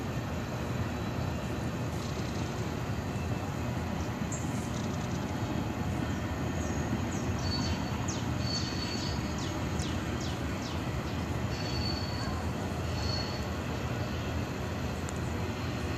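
CSX freight train's cars rolling past with a steady low rumble. A few brief high-pitched wheel squeals come through in the middle.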